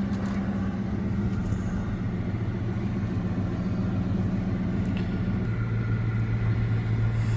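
A 2006 Dodge Charger Daytona's 5.7-litre Hemi V8 idling steadily shortly after a cold start; about five and a half seconds in its steady note drops to a lower pitch.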